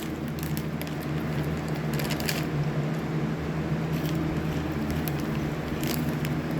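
Crunchy rolled tortilla chips being chewed, a few crisp crunches about two seconds in and again near the end, over a steady low hum.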